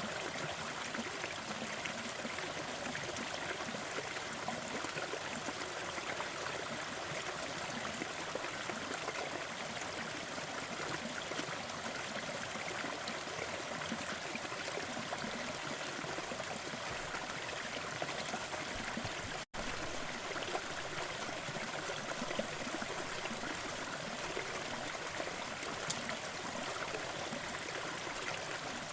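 Waterfall: a steady rush of falling and splashing water. It drops out to silence for an instant about two-thirds of the way through.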